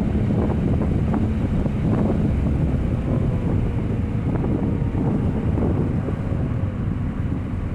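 2000 Nissan Altima's four-cylinder engine running with a loud, steady low exhaust noise from a leak at the flex pipe, heard inside the car with the windows open, mixed with wind and road noise.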